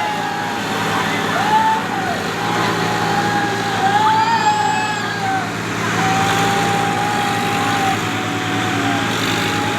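Tractor engine running steadily, with a high wavering whine over it that rises and falls in long sweeps.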